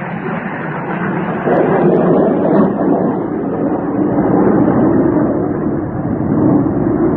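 MiG-29 fighter jets in flight: steady jet engine noise that grows louder about a second and a half in.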